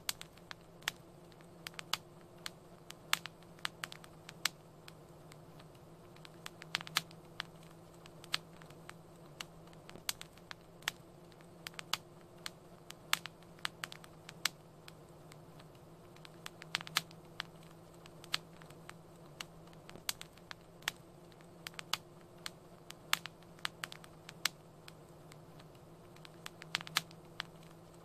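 Wood fire crackling in a fireplace: irregular sharp pops and snaps, sometimes several a second, over a faint steady low hum.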